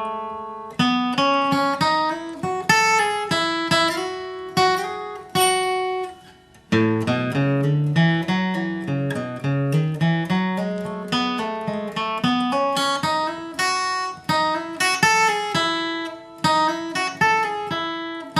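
Flatpicked acoustic guitar playing a single-note bluegrass lead line slowly, note by note. There is a brief pause about six seconds in, and the line then continues with lower notes.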